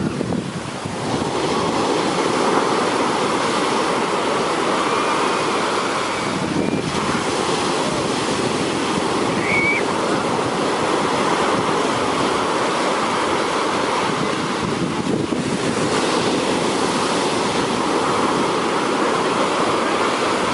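Heavy surf: large waves breaking and washing onto the beach in a steady, dense rush of noise.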